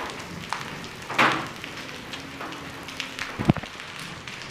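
Rain and hail striking surfaces: a steady patter broken by scattered sharp clicks, with a louder hit about a second in and a heavy thump a little after three seconds.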